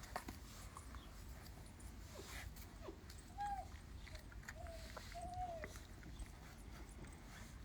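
Doberman puppies giving three short, faint whines in quick succession while nursing, with faint rustling around them.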